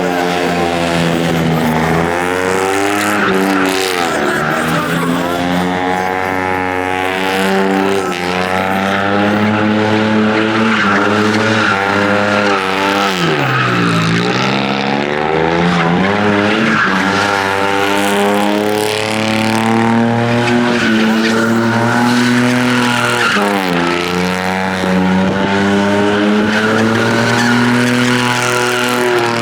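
Car engine held at high revs while its tyres spin and squeal without a break. The revs drop and climb back up several times, most deeply about halfway through.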